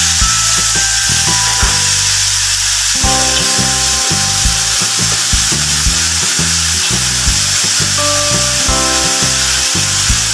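Dried chillies with garlic and onion sizzling in hot oil in a wok, stirred with a spatula that scrapes the pan. Background music with held notes plays throughout.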